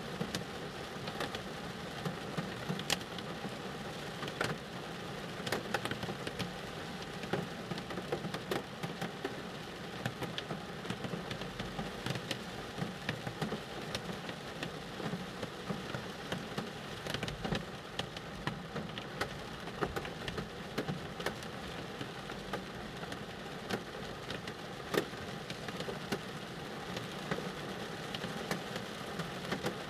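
Rain drumming on a car's roof and windows, heard from inside the cabin: a steady patter of many drops, with sharper individual hits scattered throughout.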